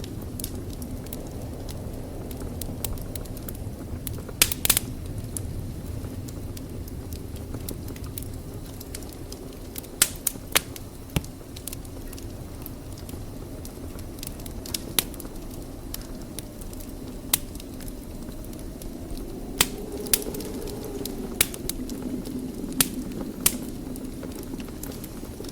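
Wood fire burning in a fireplace: a steady low rush of flame with sharp crackles and pops every few seconds, a quick cluster of them about ten seconds in.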